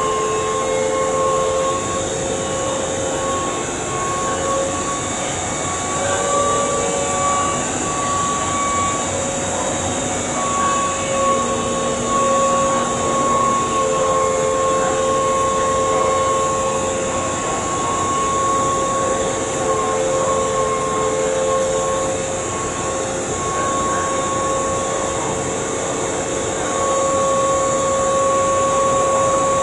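Keihan 2200-series electric train standing at the platform, its onboard electrical equipment giving a steady hum with two held tones over a constant hiss.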